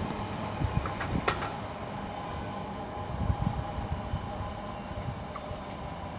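Freight wagons of a Class 70-hauled freight train rolling past on the rails: a steady rumble with a couple of sharp clicks about a second in, slowly easing off.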